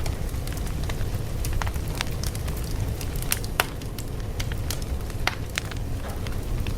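A fire crackling, with irregular sharp pops and snaps over a steady low rumble.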